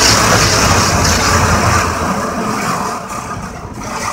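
Automatic car wash spraying water over the car, heard from inside the cabin as a loud steady hiss with a low rumble, dying down about three seconds in.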